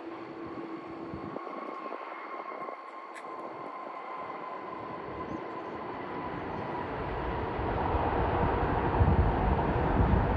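Jet airliner engines growing steadily louder as the plane comes closer, a rushing noise with a faint steady whine, and a deep rumble building up near the end.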